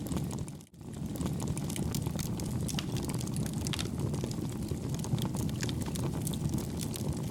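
Campfire burning: a steady low rumble of flames with frequent small crackles and pops. The sound briefly drops out under a second in.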